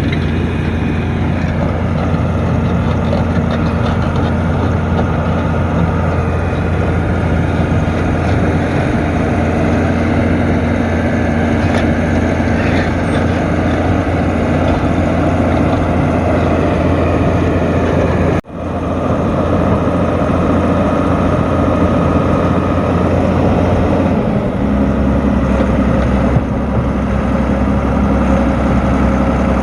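Åkerman/Volvo EC230B 23-ton tracked excavator's diesel engine running steadily under hydraulic work while the machine loads onto a trailer. It cuts out for an instant about two-thirds of the way through, and the engine note drops a little soon after.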